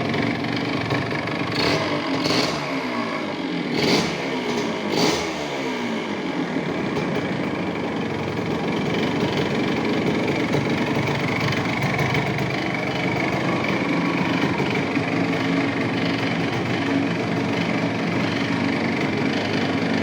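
1977 Yamaha DT 100's two-stroke single-cylinder engine running, revved four quick times in the first five seconds with the revs falling back after each, then running steadily.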